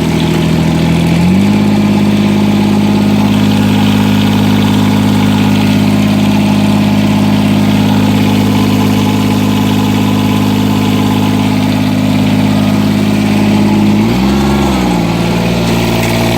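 John Deere 330's three-cylinder diesel engine running cold after a 29 °F jump-started cold start, warming up. It picks up speed about a second in and holds steady, then briefly rises and falls near the end and settles a little lower.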